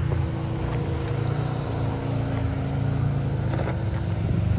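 Off-road truck's engine idling steadily, with a few faint clicks.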